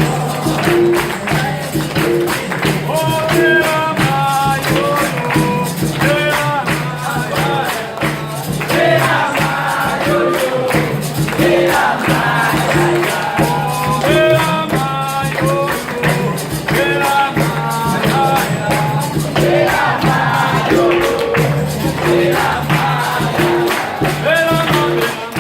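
Capoeira roda music: a berimbau and a pandeiro keep a steady, repeating rhythm while voices sing over them.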